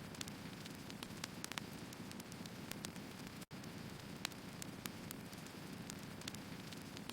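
Burning firewood: a steady low rush of flame with irregular sharp crackles and pops from the wood. The sound cuts out for an instant about three and a half seconds in.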